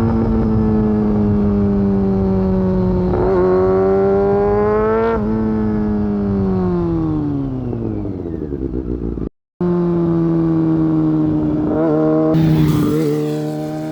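Honda CBR600F4 inline-four engine with an aftermarket Delkevic exhaust running under way. Its pitch holds, climbs briefly about five seconds in, then falls away as it slows. After a short break the engine runs steady again at a lower pitch.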